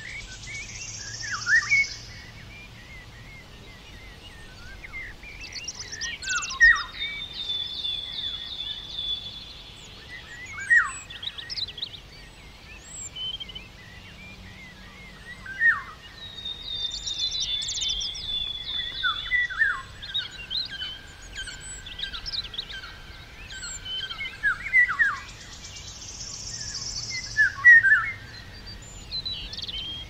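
Small songbirds chirping and calling: scattered sharp high calls with a few longer trilled phrases.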